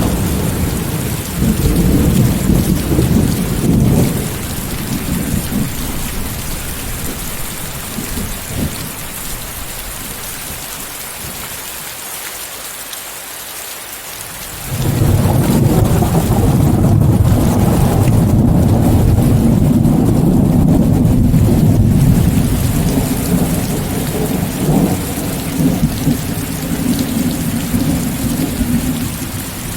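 Steady heavy rain with rolling thunder, mixed with white noise. A low rumble dies away over the first few seconds; about halfway through a sudden loud thunderclap breaks in and rumbles on for over ten seconds before fading near the end.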